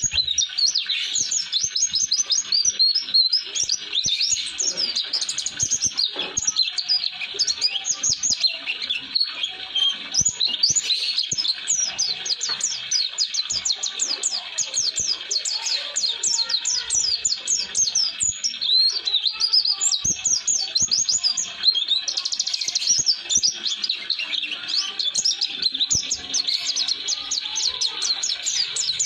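White-eye (pleci) singing its long rolling song: an unbroken stream of rapid, high chirping and twittering notes with hardly a pause.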